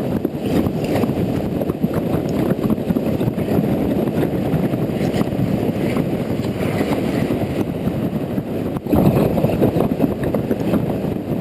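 Steady, muffled rumble of wind and road noise from a Honda Integra NC750D motorcycle riding on wet roads, with a brief dip about nine seconds in.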